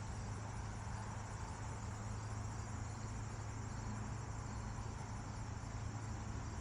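Insects chirring outdoors, a steady high-pitched pulsing trill, over a low steady hum.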